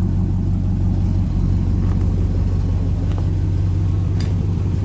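1960 Ford Galaxie Starliner's 292 Y-block V8 idling steadily through a straight pipe and glass-pack muffler, just after a cold start. It is still warming up and, still cold, would stall if revved.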